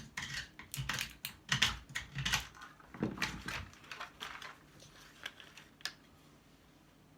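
A run of quick, irregular clicks and short scrapes of tool work on a transformer's winding, as the wire is worked at to check whether it is copper. The clicks come thick for about four seconds, then thin out.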